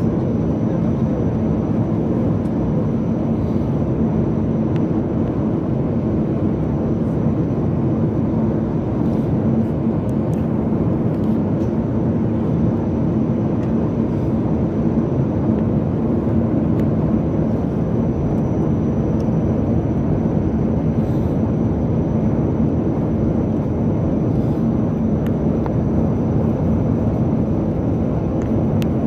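Steady cabin noise inside a Boeing 737 MAX 8 on descent: the even rumble of its CFM LEAP-1B engines and the airflow over the fuselage, with a steady low hum underneath.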